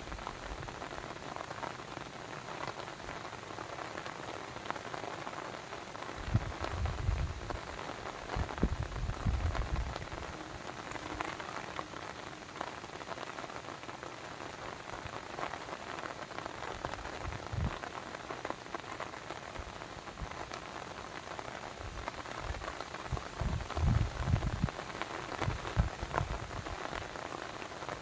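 Steady rain falling, a dense even patter. A few low rumbles come through, about six seconds in, briefly around the middle, and again near the end.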